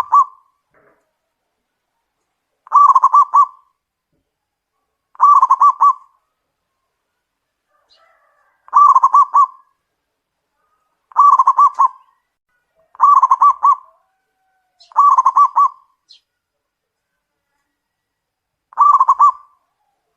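Zebra dove (perkutut) cooing: short phrases of rapid, stuttering coo notes, repeated about every two to three seconds, eight phrases in all.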